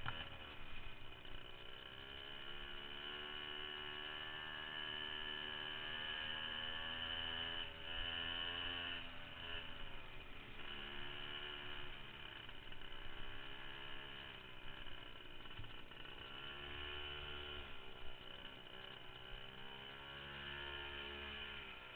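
Minibike's small engine droning, its pitch rising and falling slowly as it speeds up and slows down.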